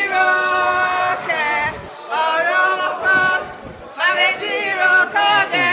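Vocal music: singing voices holding notes about a second long, some wavering, phrase after phrase with short breaks between.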